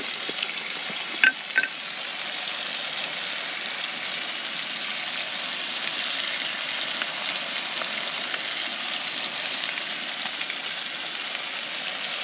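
70-30 ground beef frying in a pan with a steady sizzle, and two sharp clicks a little over a second in.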